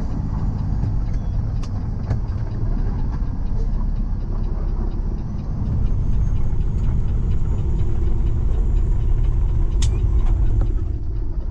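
Tow truck engine and road noise while driving, a steady low rumble heard from inside the cab. It gets louder about halfway through, and there is a single sharp click near the end.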